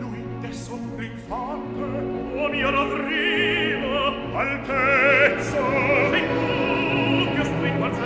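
Opera aria with orchestral accompaniment: sustained orchestral chords, then a solo operatic voice with wide vibrato enters about a second in and sings long held notes.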